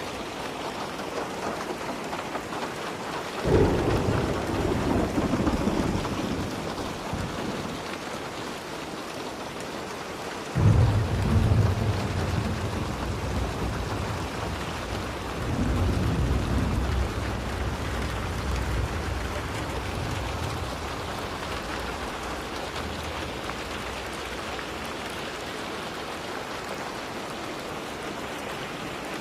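Steady rainfall with rolls of thunder. Three low rumbles break in suddenly, about three seconds in, about ten seconds in (the loudest) and about fifteen seconds in, each dying away over several seconds under the rain.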